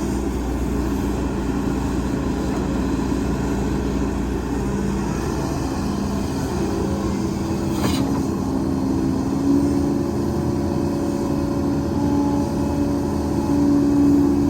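Heavy diesel earth-moving machinery running steadily, its engine note rising under load several times in the second half. A short sharp click about eight seconds in.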